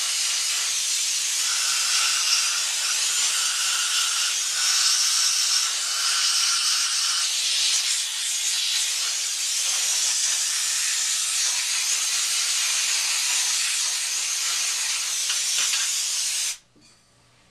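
Compressed nitrogen blowing out a gas furnace's burner tubes to clear the combustion debris clogging their ends: a loud, steady hiss that cuts off sharply near the end, followed by a few faint clicks.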